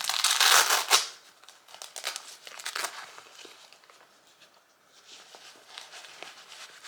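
Crinkling and rustling of packaging being handled, loudest in the first second, then lighter scattered rustles and clicks.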